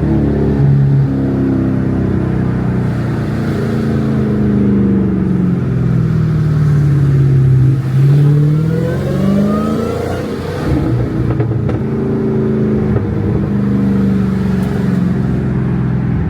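Car engine revving at a meet, its pitch sliding up and down over several revs, with one rev climbing high about halfway through.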